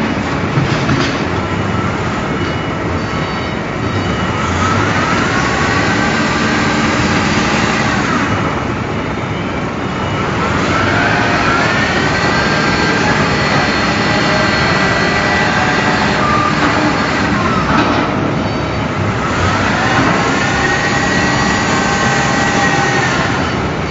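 Loud, steady industrial machinery noise. Three times, a motor whine rises, holds, then falls away: around a quarter of the way in, through the middle, and near the end.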